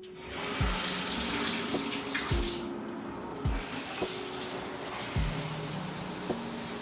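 Water running hard from a tap, starting at once and flowing steadily.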